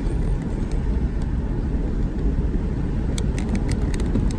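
Road and engine rumble inside a moving car's cabin, steady throughout, with a quick run of light clicks near the end.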